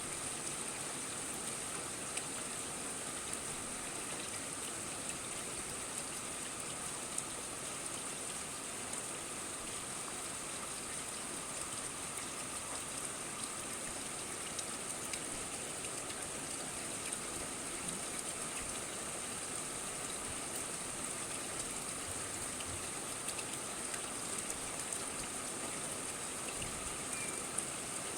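Steady rain falling, an even hiss with scattered drop impacts.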